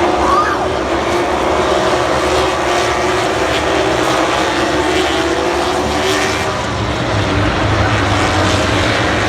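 MotoGP racing motorcycle engines running at high revs, a steady blended engine whine whose pitch slowly rises and falls.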